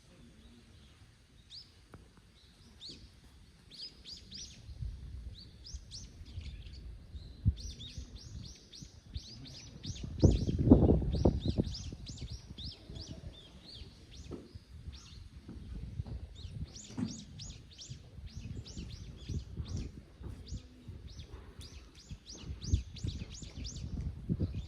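Small birds chirping in quick runs of short, high, downward-sliding notes. Low rumbling thuds come and go underneath, loudest about ten seconds in.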